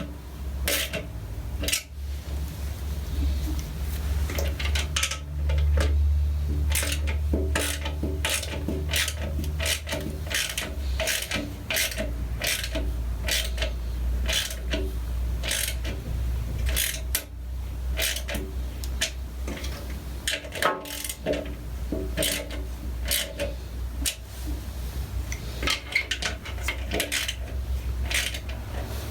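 Metal hand tools clicking and clinking at an irregular pace, roughly one to two a second, over a steady low hum.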